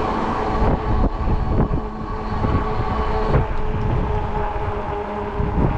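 Ecotric folding fat-tire e-bike riding on pavement: a steady motor whine over tyre rumble and wind buffeting the microphone, with a few brief knocks from bumps.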